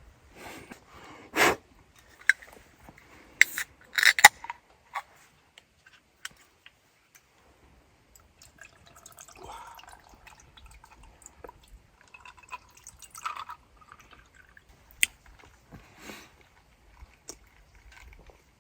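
A scatter of sharp clicks, taps and light knocks from small objects being handled, loudest about a second and a half in and again around four seconds, with faint dripping or trickling liquid between them.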